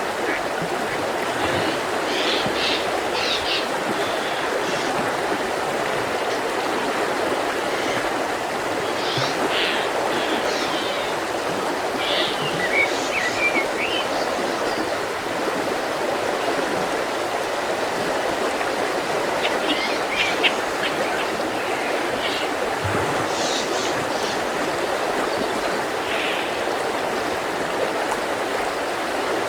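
Mountain river flowing steadily, with birds singing short phrases now and then above the rush of the water.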